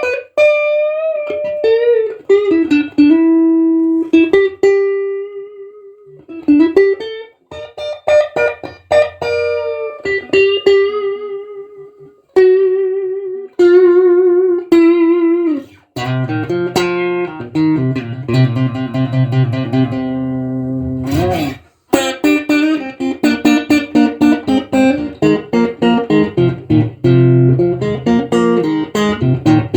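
Electric guitar played through an amp, a 1976 ash-body Stratocaster-style guitar: single-note melodic lines with bends and vibrato, then fuller chords with bass notes from about halfway, with a short break a few seconds later.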